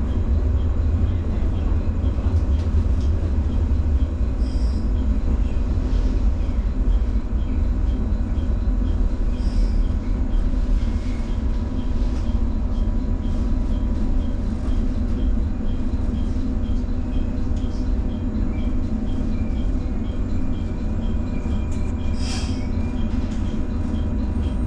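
JR 115-series electric multiple unit running on the rails, a steady low rumble with a constant hum from the running gear. A faint thin whine appears in the second half, and a short sharp high-pitched burst comes near the end.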